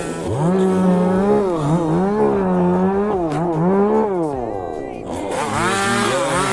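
Chainsaw engine revving up and down several times, its pitch climbing in from low near the start and then swelling and dipping in smooth waves.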